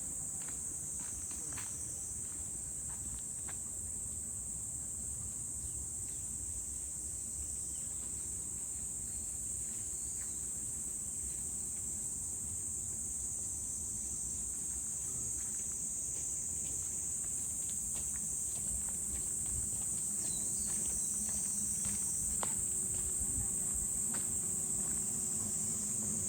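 Steady, high-pitched chorus of summer insects with no break. Faint scattered ticks and knocks sound underneath.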